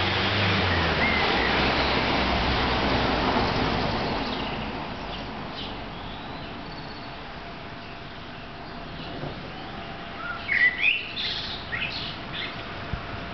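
A small bird chirping in a quick cluster of calls about ten seconds in, over a steady outdoor rush of noise that fades away over the first few seconds.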